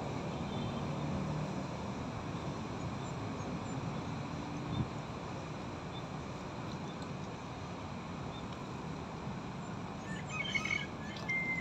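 Birds chirping now and then over a steady low background hum of the railway station, with a short burst of chirping about ten seconds in.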